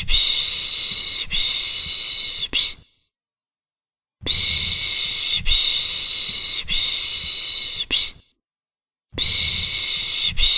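A person's long 'shh' shushing, the Turkish 'pış pış' used to lull a baby to sleep. The shushes come in runs of three or four strokes of about a second each, with a short silent pause between runs.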